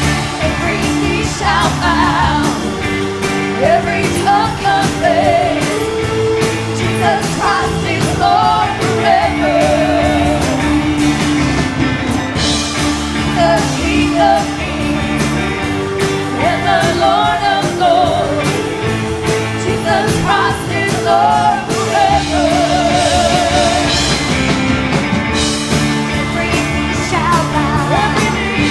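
Upbeat gospel song: a singer's melody with a wavering vibrato over a band playing held chords and a steady drum beat.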